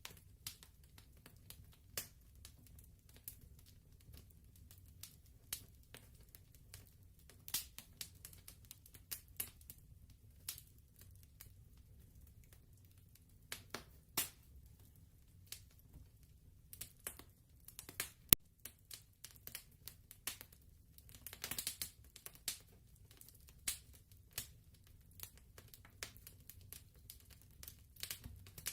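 Wood fire crackling: irregular sharp pops and snaps over a faint low rumble, with one louder crack past the middle and a short hiss soon after.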